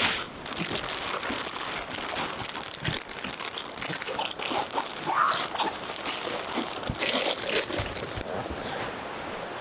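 Plastic tarp sheeting crinkling and rustling as it is handled, with many small irregular crackles.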